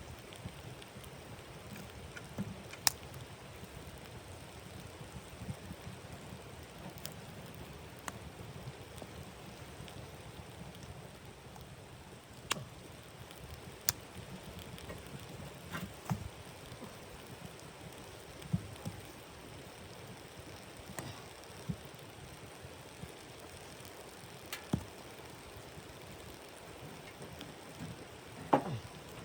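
Wood fire crackling in a stove, with sharp pops at irregular intervals over a steady low rush.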